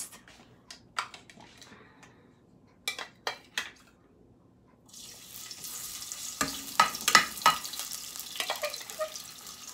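A few light clicks of a spoon on a dish. About five seconds in, chopped garlic and ginger hit hot olive oil in a pan and start sizzling steadily, with several knocks of a utensil stirring them in the pan.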